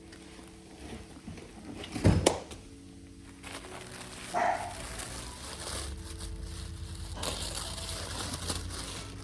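Clothes and packaging being handled, with a pair of sharp knocks about two seconds in and rustling near the end, over faint background music. A short higher-pitched sound comes about four and a half seconds in.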